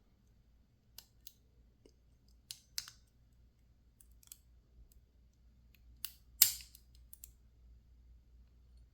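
Scattered small metallic clicks and ticks from a lock pick and tension wrench working in a PacLock 410 Pro padlock, about nine in all, the loudest a sharp click a little over six seconds in.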